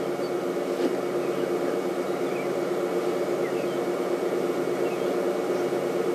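A steady low mechanical hum with faint, scattered short bird chirps over it.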